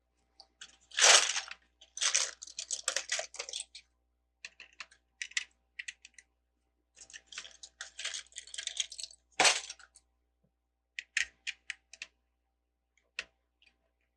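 Plastic LEGO bricks clicking and clattering as pieces are sorted through and pressed together, in irregular bursts with short pauses; the loudest rattle comes about a second in, with a single sharp click a little past the middle.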